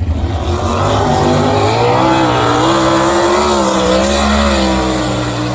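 A 410 sprint car's V8 engine running hard on the dirt oval. The loud engine note swells about a second in and wavers up and down in pitch as the car runs around the track, easing off slightly near the end.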